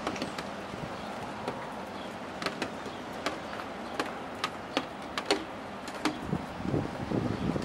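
Steady rain falling, with irregular sharp taps of large drops landing close by, about one or two a second. About six seconds in, a low fluttering rumble comes in underneath.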